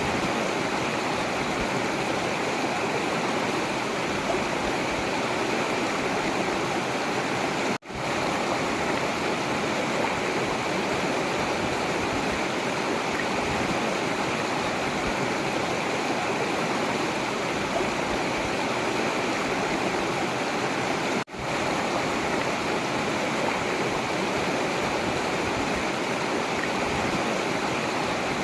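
Forest river rushing steadily. The sound cuts out for an instant twice, about eight seconds in and again about twenty-one seconds in.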